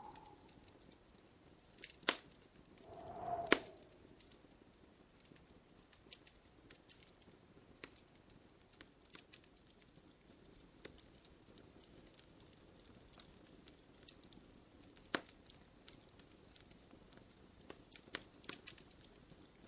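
Wood fire crackling in a fireplace: scattered sharp pops and snaps over a soft hiss, with the loudest snaps about two and three and a half seconds in and another around fifteen seconds. A brief low hoot-like call sounds just after three seconds.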